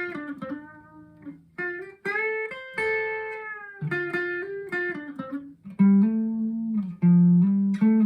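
Squier Classic Custom Telecaster electric guitar played through a Vox AV15 valve amp: a run of picked single notes and chords, with louder, lower notes held for about two seconds near the end.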